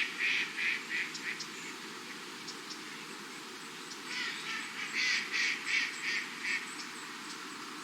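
A duck calling in runs of short quacks, about three a second. One run dies away in the first second or so, and a second run comes about halfway through.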